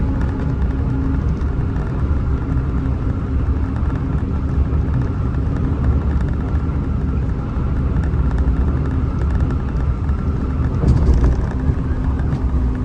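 Hino RM 280 bus's diesel engine running steadily at highway speed, a continuous low drone with road rumble.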